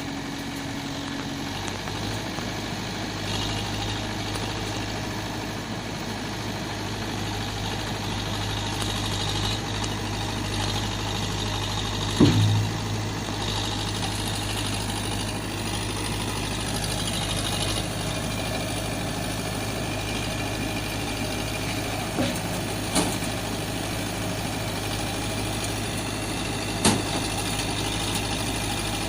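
A vehicle engine idling steadily with a low hum. There is one loud knock about twelve seconds in and a few smaller knocks near the end.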